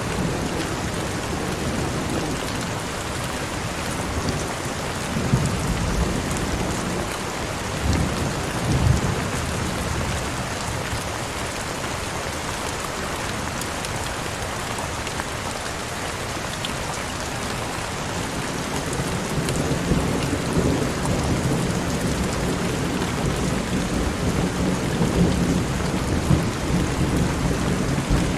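Heavy rain falling steadily, with low rumbles of thunder about five to nine seconds in and again through the second half.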